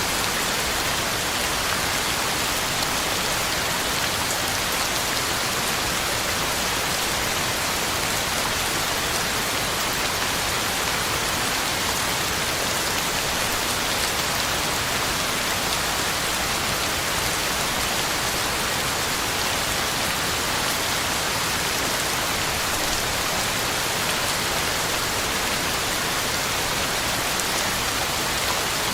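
Heavy rain falling steadily, a dense even hiss of drops on the ground and leaves with fine tapping of individual drops.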